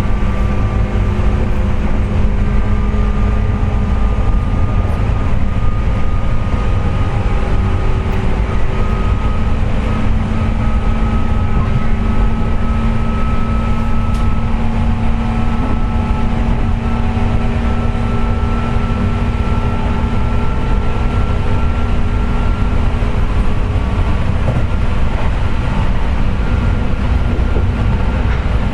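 JR West 201 series electric train (motor car MoHa 201-280, armature-chopper controlled) running at speed: a steady heavy rumble with whining tones that rise slowly in pitch. This is the loud "jet sound" that the uploader puts down to electrical pitting (electrolytic corrosion) of the motor bearings.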